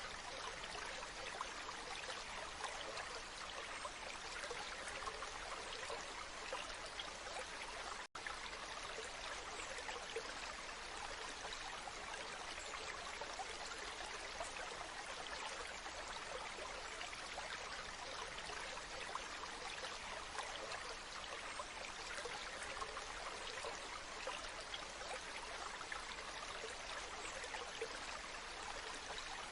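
Waterfall rushing steadily, an even splashing hiss of falling water, broken by a momentary dropout about eight seconds in.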